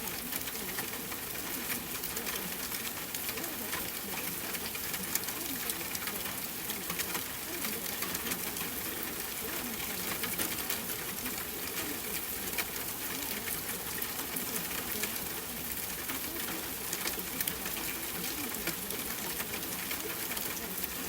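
Steady rain ambience: an even hiss with many small, sharp drop ticks scattered through it, under a faint low wavering sound.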